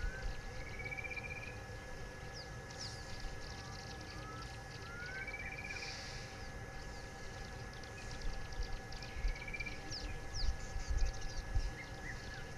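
Several wild birds calling: short rising whistles and a rising trill heard three times, over a busy background of quick high chirps. A steady high thin tone and a low uneven rumble run underneath.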